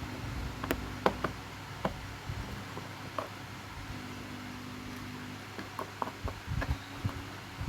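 Scattered light knocks and clicks at irregular intervals, the sound of small objects being handled, over a steady low hum.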